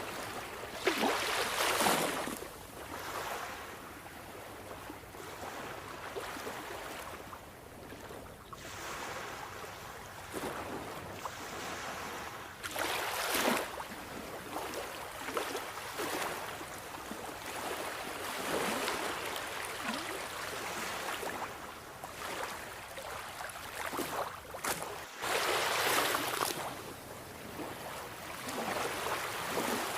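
Sea waves surging and breaking: a steady wash that swells and falls back every few seconds, with the biggest surges about two seconds in, around the middle and near the end.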